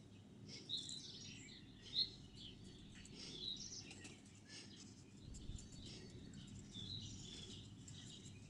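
Birds chirping faintly in short, scattered calls over quiet outdoor ambience, one call louder about two seconds in.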